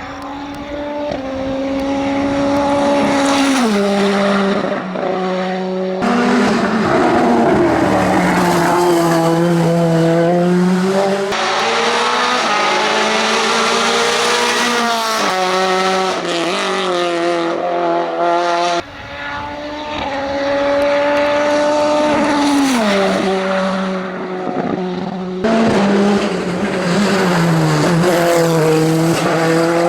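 Racing car engines running hard, their pitch rising under acceleration and dropping at gear changes or as a car passes, with some tyre noise. The sound changes abruptly several times as different cars' runs follow one another.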